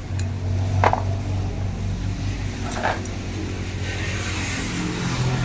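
A steady engine hum runs throughout, with two sharp metallic clicks about two seconds apart.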